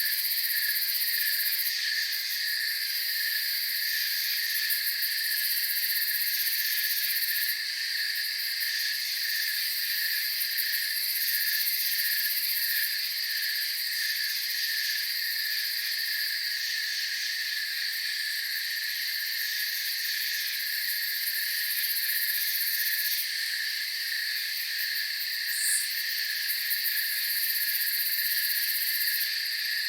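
Night chorus of crickets chirping steadily, with a pulsing chirp about three times a second over a continuous high-pitched trill. There is one short, higher chirp about 26 seconds in.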